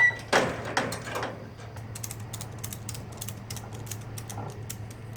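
Ratchet tie-down strap being cranked tight, its pawl giving a run of quick, uneven clicks, after a louder scraping rustle near the start.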